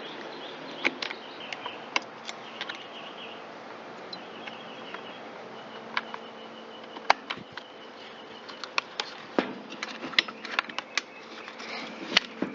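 Tools and chainsaw parts being handled during disassembly: scattered small clicks and knocks, more frequent near the end, over a faint buzzing whine.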